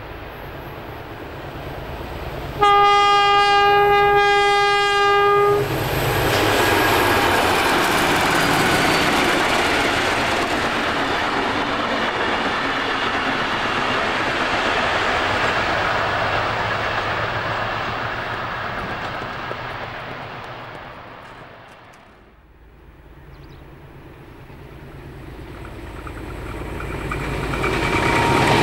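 A NSW 42 class diesel-electric locomotive sounds one long horn blast of about three seconds as it approaches with a passenger train. Its engines and the train then pass by loudly and fade away. Another diesel-hauled passenger train then approaches, its sound building near the end.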